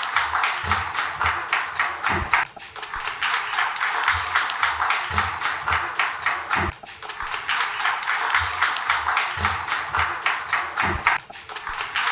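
An audience applauding, with music playing beneath the clapping.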